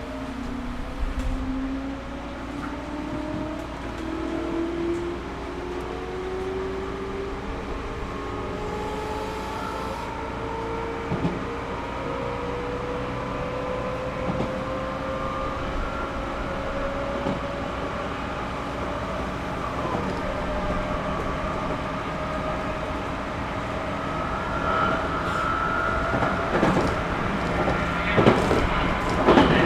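Inside a Series 211-5000 electric multiple-unit train accelerating away from a station: the traction motor and gear whine climbs slowly in pitch over the steady running rumble. Near the end come a few sharp knocks from wheels passing over rail joints.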